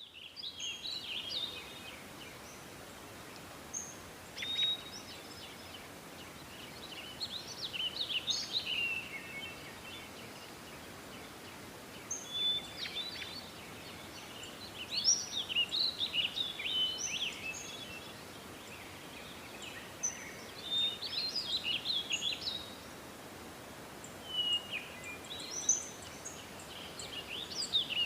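Forest birdsong: several small birds chirping and trilling in bursts every few seconds, over a faint steady hiss.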